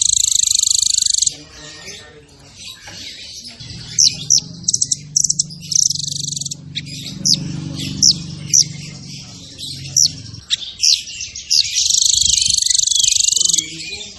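Songbird singing a fast, tightly packed song: dense high buzzing trills near the start and again near the end, with quick sharp chirps in between. A low hum runs under the middle part.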